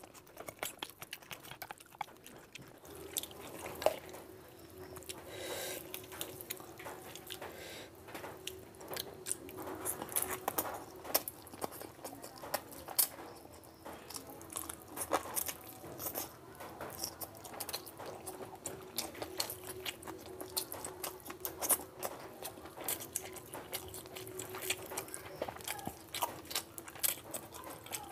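Close-miked eating: a person biting and chewing chicken curry and rice, with many small irregular clicks and smacks from the mouth and food.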